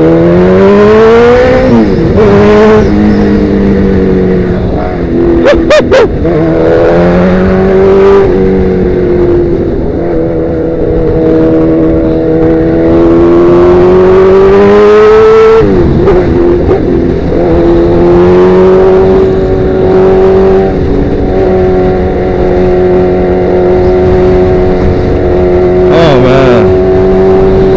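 Sportbike engine through a Danmoto XG-1 aftermarket exhaust, loud, pulling hard with the revs climbing, dropping sharply on upshifts about two and a half seconds in and again about sixteen seconds in, then holding steady revs at cruising speed.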